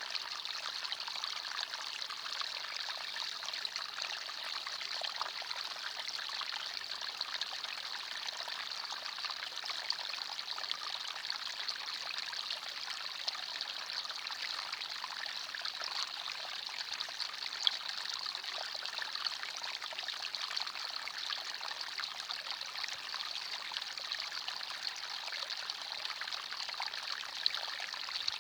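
Forest stream flowing steadily over rocks, a continuous hiss of running water flecked with small splashes and trickles.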